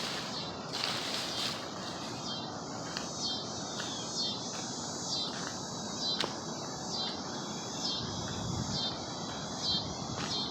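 Insects chirping outdoors in an even, repeating rhythm, about one and a half chirps a second, over a steady background hiss. Brief rustling near the start and a single sharp click about six seconds in.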